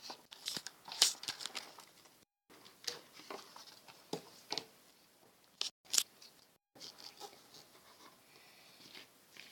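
Scissors cutting a sheet of paper: a series of irregular sharp snips, the loudest about a second in, with paper rustling between them.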